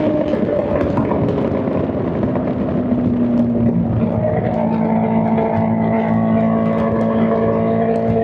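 Straight-piped Honda CBR600 inline-four engine running at steady revs. Its note eases down slightly over the first two seconds, then holds.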